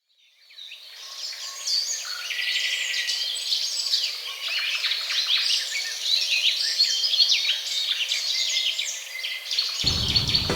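A flock of budgerigars chattering and chirping at once, a dense mix of short warbles and tweets that fades in over the first second or two. Music comes in near the end.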